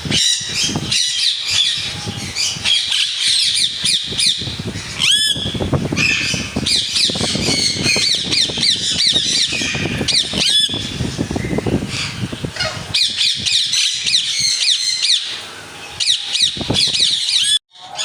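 Many parrots squawking and chirping at once, a dense chatter of short, overlapping rising and falling calls that breaks off suddenly near the end.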